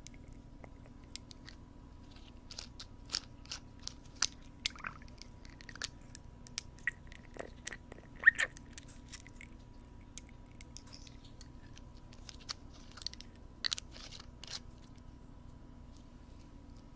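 Wooden ear pick scraping and crackling in a binaural microphone's ear: irregular close crunchy clicks and scratches, loudest about halfway through, over a steady low hum.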